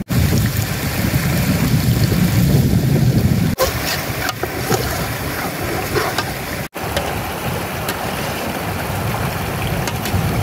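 Steady rushing noise of a heavy rainstorm, with wind buffeting the microphone in the first few seconds. The sound breaks off abruptly twice, at edits between clips.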